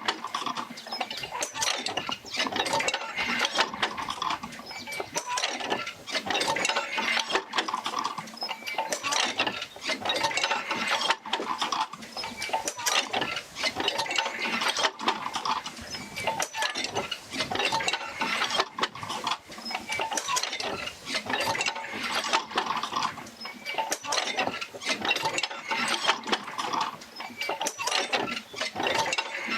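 Oil-field field wheel rocking back and forth as it drives jerker lines to the pumps, with a constant creaking, clanking and rattling of its linkages. The sound swells in a slow rhythm about every three to four seconds.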